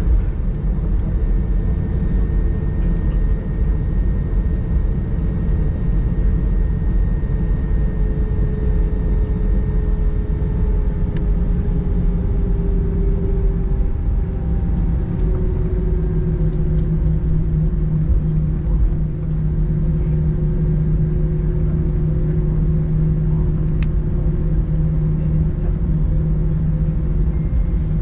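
Airbus A321 cabin noise while taxiing after landing: a steady low rumble with engine humming tones that slowly drift lower in pitch, and a deeper hum that grows stronger about halfway through.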